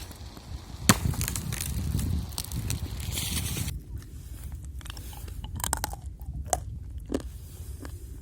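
Thin first ice crunching and cracking as it is tested under a person's weight: a sharp crack about a second in, a dense crunching stretch, then scattered sharp cracks and short pings.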